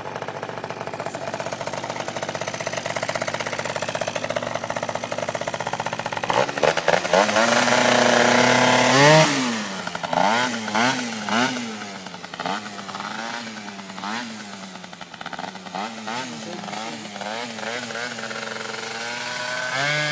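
Keeway Hurricane scooter engine idling steadily, then revved up hard about six seconds in. It follows with a string of quick throttle blips, the pitch rising and falling each time, and settles back to idle near the end.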